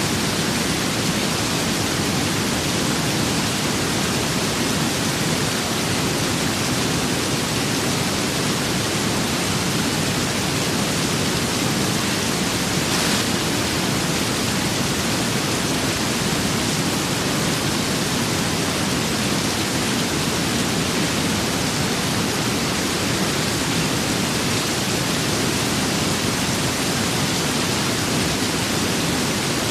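Rain and wind as one even, steady hiss.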